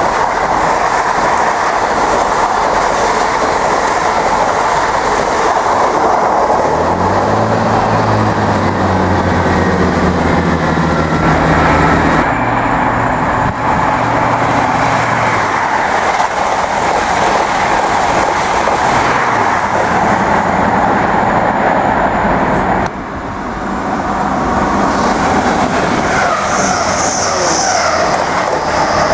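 Trains passing close at speed: a steady loud rush of wheels on rail and air, with clickety-clack over rail joints. A low engine hum runs for several seconds in the middle, and a First Great Western High Speed Train passes close near the end.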